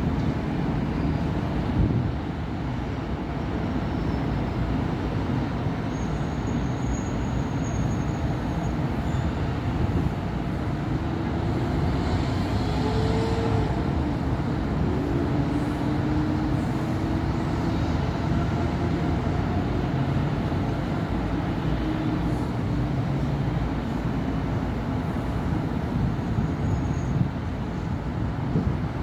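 Steady city road traffic: cars and buses passing continuously, a low rumble of engines and tyres with engine notes rising and falling as vehicles go by. A faint high whine sounds briefly about six seconds in.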